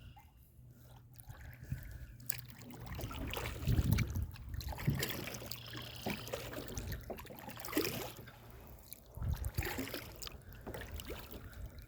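Kayak paddle dipping into the water, with irregular splashes and dripping that grow louder after the first couple of seconds.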